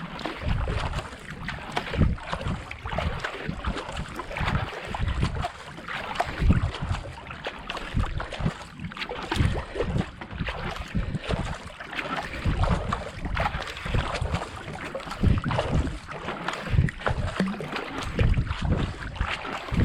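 Kayak paddle strokes at a steady racing pace of about 70-80 strokes a minute: blades dipping and pulling through canal water, with water rushing along the hull. Wind buffets the camera microphone as a low rumble under the strokes.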